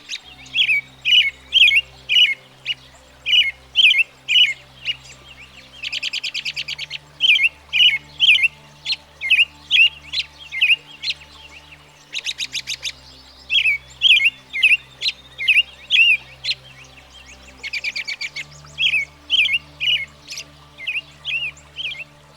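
American robin singing: short whistled phrases repeated over and over. About every six seconds the song is broken by a rapid stuttering chatter.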